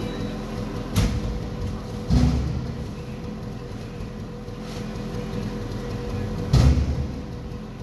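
Forklift engine running steadily, with three heavy thuds: one about a second in, one about two seconds in and the loudest near the end.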